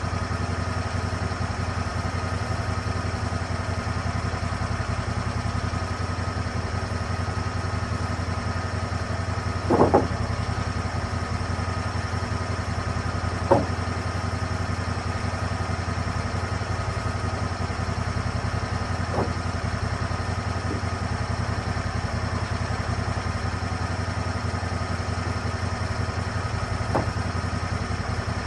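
Lucas Mill 10-30 swing-blade sawmill's petrol engine running steadily at an even pitch. A few short knocks stand out over it, the loudest about a third of the way in and another a few seconds later, with two fainter ones near the end.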